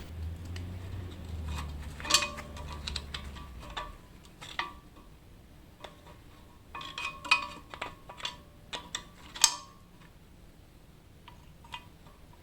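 Steel tools clinking and knocking against a Holden 253 V8's flywheel and its bolts as they are worked loose with a crowbar and a screwdriver. Irregular sharp metal clanks with a short ring, the loudest about two seconds in and again near the middle.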